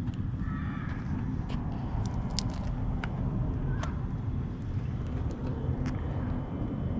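Outdoor background noise: a steady low rumble with scattered faint clicks and a few short chirps.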